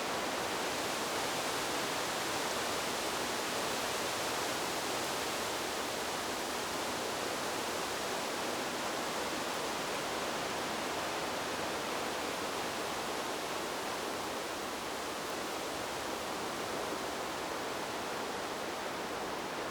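Steady, even rushing of wind blowing through trees, with no gusts or breaks.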